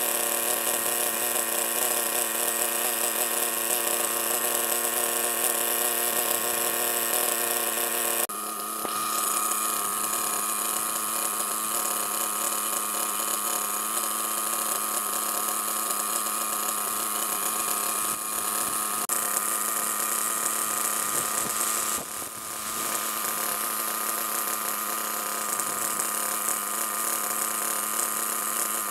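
Ansmann ARNE 21 nitro engine in an RC buggy, running steadily with a high, buzzing hum while it burns through its first tank of fuel. The tone changes abruptly about eight seconds in, and the level dips briefly later on.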